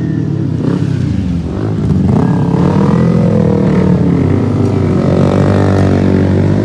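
Motorcycle engine running under way, its pitch rising as it accelerates about two seconds in and easing back a second later.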